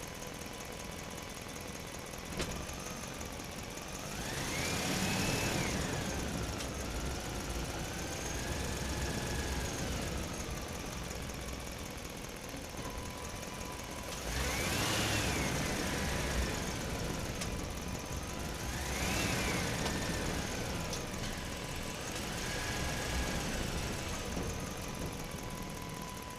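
Electric motors and gearboxes of a radio-controlled toy excavator whining as the arm and bucket work, the pitch rising and falling with each movement. It swells loudest three times: about five seconds in, near the middle, and again a few seconds later.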